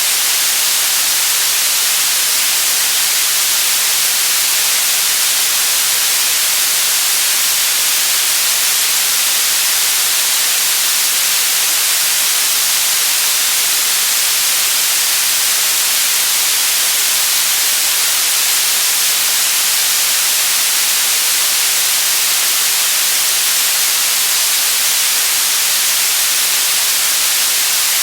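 Steady, unbroken white noise: an even hiss, bright and heavy in the treble, without any change in level.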